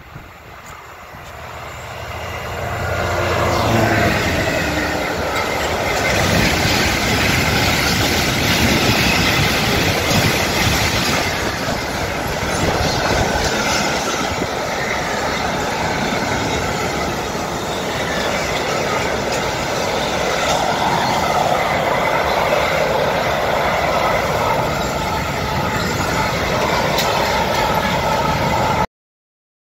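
Freight train passing: the locomotive grows louder over the first few seconds as it approaches, its pitch dropping as it goes by. A long line of covered box wagons then rolls past with steady wheel-on-rail noise. The sound cuts off abruptly near the end.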